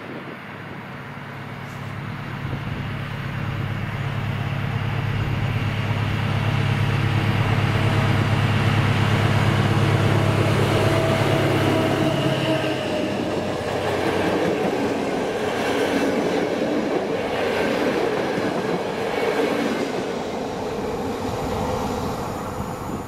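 SU42 diesel locomotive passing close by with a steady engine note that grows louder, then cuts off about halfway through as it goes past. The passenger coaches then roll by with a rhythmic clickety-clack of wheels over rail joints, fading toward the end.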